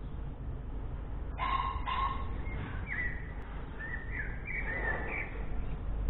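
Caged bird calling: two short, harsh bark-like calls about half a second apart, then a string of higher, warbling chirps that glide up and down in pitch.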